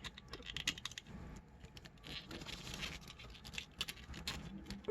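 Small plastic action-figure parts being handled and swapped: a scattered run of light clicks and scrapes.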